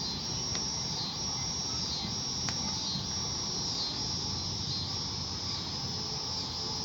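Insects trilling in a high, steady chorus that pulses in roughly one-second phrases, over a low, even rumble.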